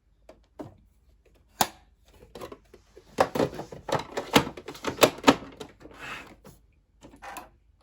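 Sewing machine mechanism clattering: a few sharp clicks, then a dense run of irregular clicking and clatter lasting about two and a half seconds in the middle, and a couple more clicks near the end. The machine is not working properly and is making strange noises.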